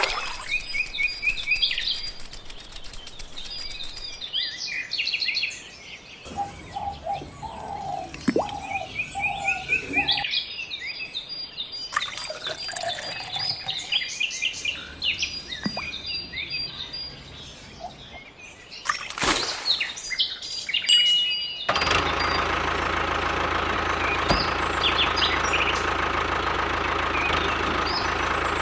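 Birds chirping and calling in short repeated phrases, in several separate stretches. About 22 seconds in, this gives way abruptly to the steady running of a small diesel engine, the mini diesel engine that drives the water pump.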